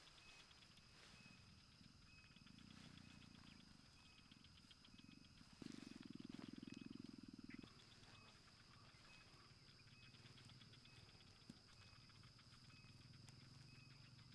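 Quiet outdoor ambience: a steady high whine with faint repeated chirping. A low, rapidly pulsing buzz, the loudest thing here, comes in for about two seconds in the middle.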